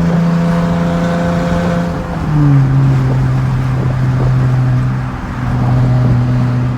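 2017 Dodge Challenger SXT's 3.6-litre V6 through a straight-piped exhaust with mid and rear mufflers deleted, droning steadily under load up a hill. Its pitch drops about two seconds in, as at an upshift, and the sound dips briefly about five seconds in before the drone carries on.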